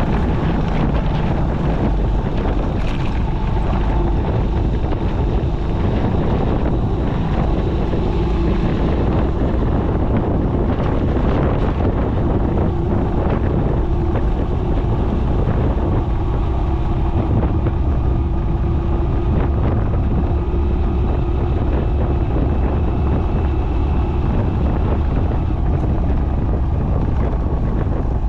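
Steady wind rush on a GoPro's microphone on a moving motorcycle, with the motorcycle's engine running underneath.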